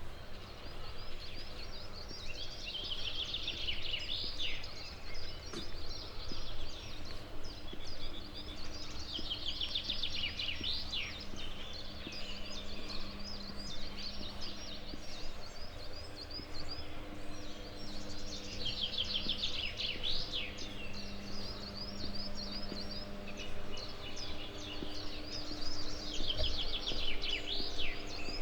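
A songbird singing a rapid trilled phrase four times, each about two seconds long and ending in a quick falling flourish, several seconds apart. Under it runs a steady low rumble with a faint hum.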